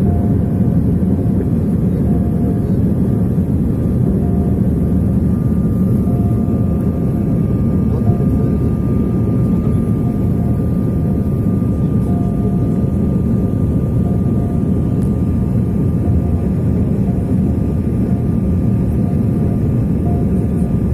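Airliner coming in to land: a steady, unbroken rumble of jet engines and airflow, with a faint steady whine above it.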